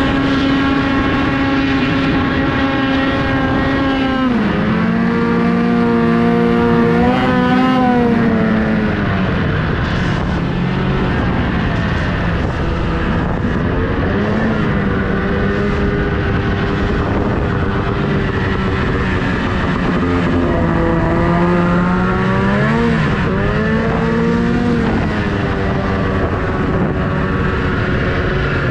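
Snowmobile engine running under throttle, with the pitch dropping about four seconds in and then rising and falling a few times as the throttle changes, over a steady rush of noise.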